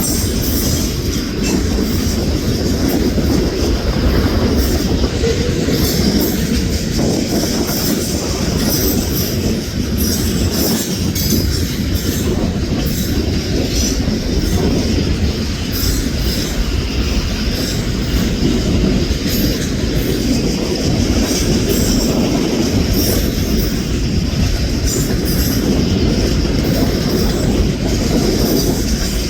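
Freight train cars rolling steadily past close by: a continuous rumble of steel wheels on rail with clacking over the rail joints and a thin, high wheel squeal.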